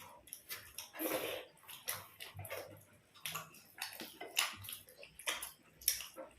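Close-up eating sounds of people chewing paratha and curry: irregular wet smacks and clicks of the mouth, with a longer noisy burst about a second in.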